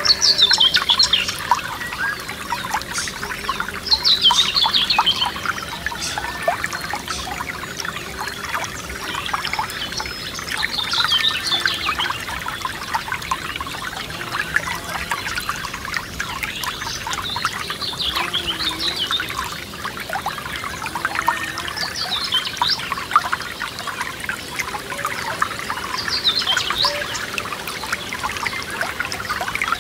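Forest stream trickling and babbling steadily, with a songbird repeating a short, falling phrase every few seconds.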